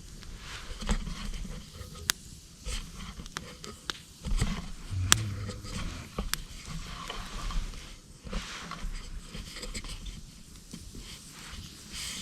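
Scattered sharp clicks and taps with rustling between them and a few dull thumps about four to six seconds in: close handling noise.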